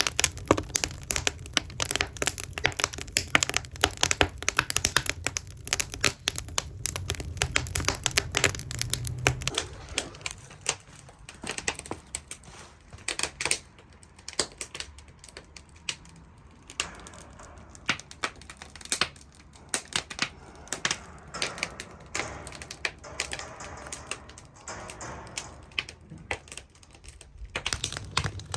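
Split firewood burning in the agungi firebox of a traditional Korean ondol heating system, crackling and popping irregularly. The crackle is dense for about the first ten seconds, then comes in sparser pops.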